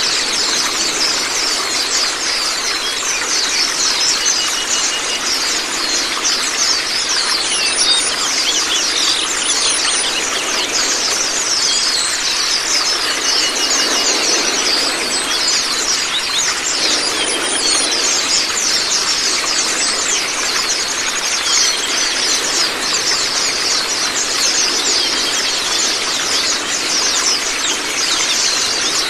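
A flock of white-eyes (pleci, Zosterops) calling together in rapid, high, thin twittering notes, over the steady noise of running water.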